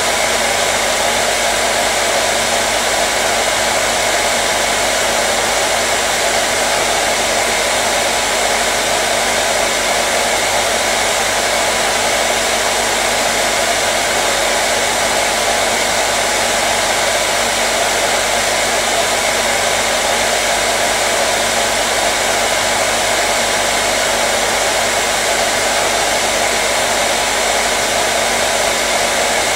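Electric hair dryer running continuously at a steady speed: an even, unchanging airy rush with a faint motor hum.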